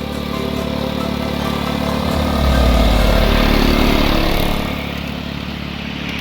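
A 7¼-inch gauge miniature railway locomotive passing close by: its deep running sound swells about two seconds in and fades again after about four and a half seconds.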